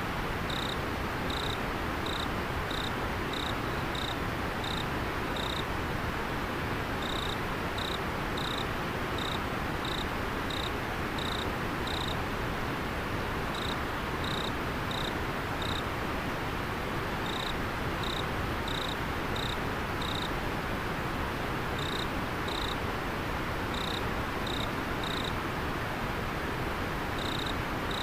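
River water flowing with a steady rush, and over it a cricket chirping about one and a half times a second in runs of several chirps, broken by short pauses.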